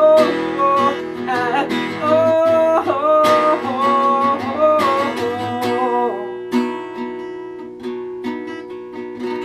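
Acoustic guitar playing the song's ending, with a wordless sung line over it for about the first six seconds; then the guitar chords ring on alone and slowly die away.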